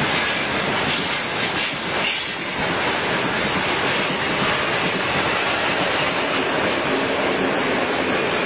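Freight train wagons rolling past at a steady speed: a continuous, even noise of steel wheels running on the rails.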